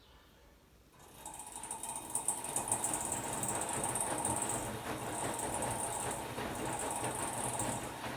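Hotpoint-Ariston AQD972F washer-dryer running: about a second in, a mechanical sound starts, builds over a second and then runs on steadily with a hum and a hiss that comes and goes.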